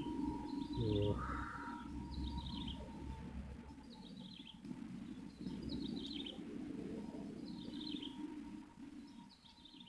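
A bird repeating a short, high, falling call phrase about every second and a half, over a steady low rushing noise.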